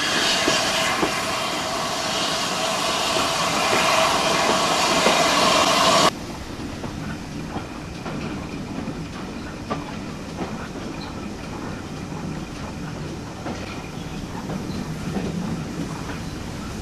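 A train running along the rails with the clickety-clack of wheels over rail joints. A louder stretch with steady ringing tones stops abruptly about six seconds in, leaving a quieter rumble with occasional clicks.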